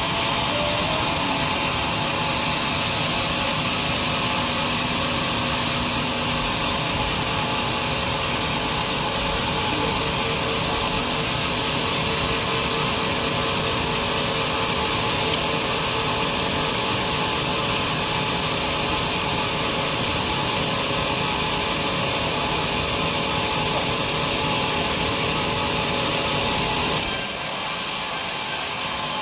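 Large sawmill bandsaw cutting lengthwise through a big log, a steady, loud rasping hiss of the blade in the wood. Near the end there is a brief louder spot, and then the low rumble drops away.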